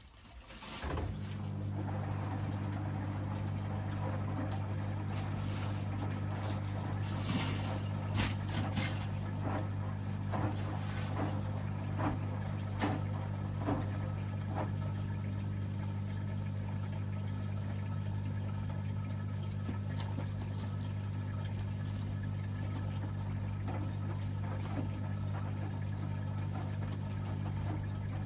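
Hoover DXOA610AHFN-80 washing machine's drain pump starting about a second in and then running steadily, pumping the water out, with scattered light clicks and knocks from the drum.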